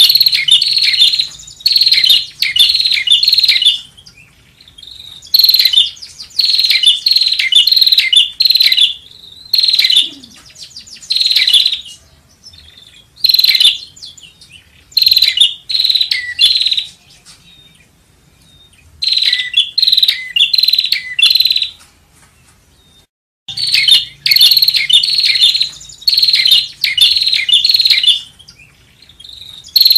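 Prinia (prenjak) calling: loud bursts of rapid, sharp chirps, each phrase lasting a second or two, repeated with short pauses between.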